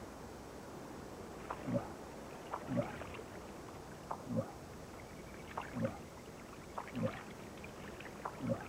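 Slow, regular sloshing and splashing in water, one stroke about every second and a quarter, each a light click followed by a low slosh.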